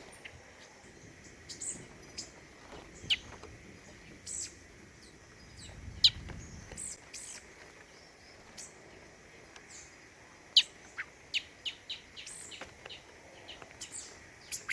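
Small forest songbirds giving scattered short chirps and sharp high chip notes at irregular intervals, over a faint steady high tone. A brief low rumble comes about six seconds in.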